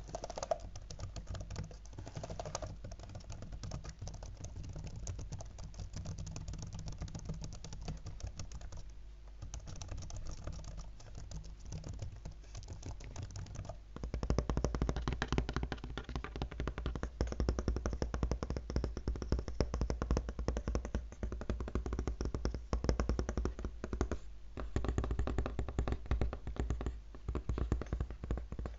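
Fingertips tapping fast on a laptop, a dense stream of quick clicks like rapid typing, growing louder about halfway through.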